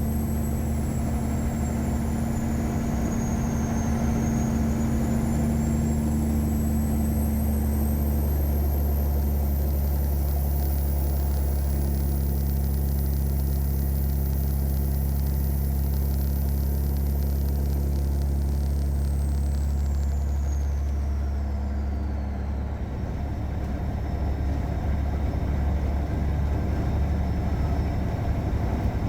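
Caterpillar 3406E inline-six diesel of a Freightliner Classic truck running steadily under way, a deep drone with a faint high whistle that rises and falls above it. About three-quarters of the way through, the engine note changes and the level dips briefly.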